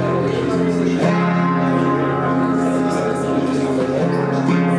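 Acoustic guitar playing an instrumental passage of strummed, ringing chords, with a fresh strum about a second in and another near the end.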